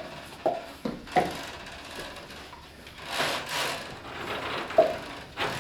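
Sharp knocks or taps from a live soundscape piece: three in the first second and a half, another near the end, with a short rushing, swishing noise around the middle.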